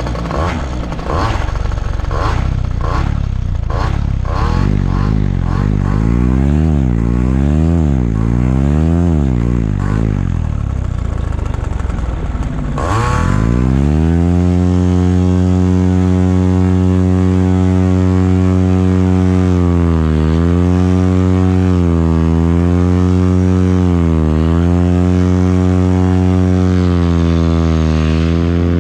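Paramotor engine and propeller running. At first its speed swings up and down about once a second. About 13 s in, after a sharp crack, it revs up to a steady high speed and holds there, easing off briefly about every two seconds.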